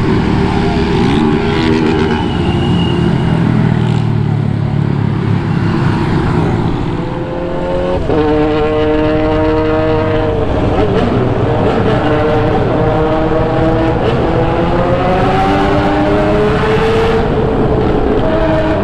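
Motorcycle engine under way with a steady rush of wind noise; from about halfway in, its pitch climbs with acceleration, drops back and climbs again several times as it shifts through the gears.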